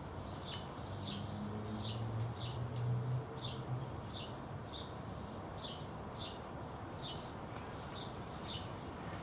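A small bird chirping over and over, short high notes about twice a second. A low hum swells briefly in the first half.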